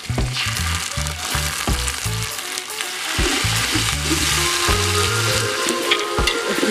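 Onions and spices frying in oil in a large aluminium pot, sizzling steadily as a ladle stirs in spoonfuls of masala paste.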